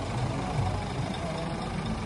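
Scania S500 truck's 13-litre straight-six diesel engine idling steadily.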